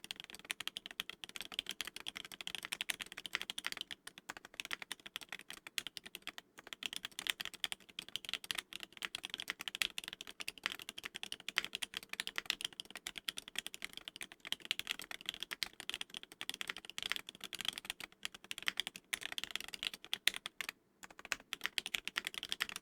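Steady, fast typing on a gasket-mounted KBDFans Tofu mechanical keyboard with lubed and filmed Soho linear switches and GMK keycaps: a dense run of keystroke clicks, pausing briefly near the end.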